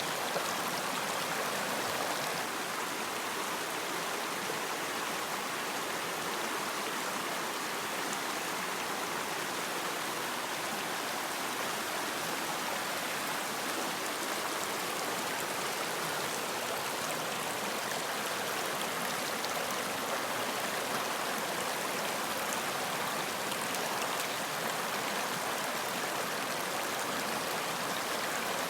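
Running water in a stream, a steady even rush and babble.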